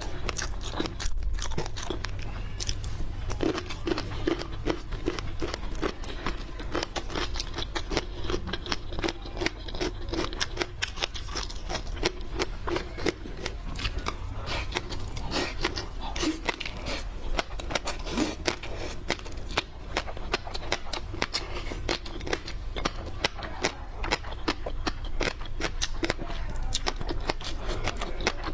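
Close-miked eating of seafood: a rapid, continuous run of crunching, crackling and wet chewing sounds.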